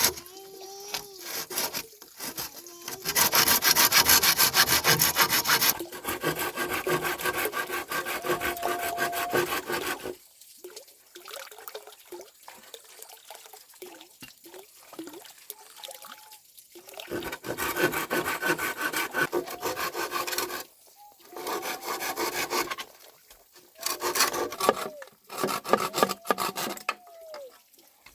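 Hand saw cutting wood in rapid back-and-forth strokes, in spells with short pauses, loudest a few seconds in.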